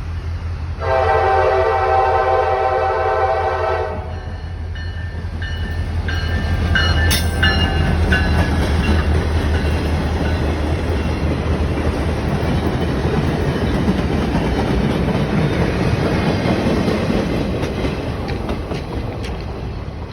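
CSX SD40-3 diesel locomotive sounding one long horn blast of about three seconds over the low drone of its engine. The train then passes with rising rumble and wheel clatter, with a few brief high metallic tones.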